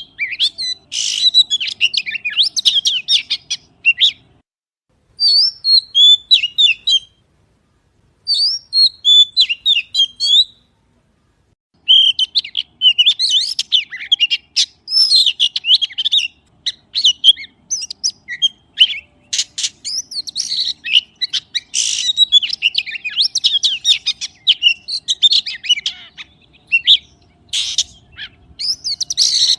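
A songbird, sold as a magpie, singing a fast, varied run of chirps and whistles. It breaks off for a second or two a few times in the first half, then sings almost without pause.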